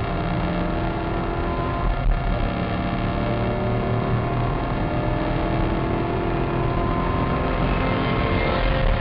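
Maserati Cambiocorsa's V8 engine running hard under acceleration, heard from inside the cabin, its pitch climbing steadily through the second half, with a brief break about two seconds in.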